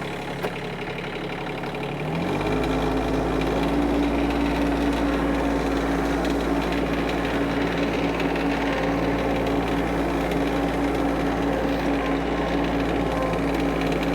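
Kioti CS2520S subcompact tractor's three-cylinder diesel engine running; about two seconds in its speed steps up and then holds steady.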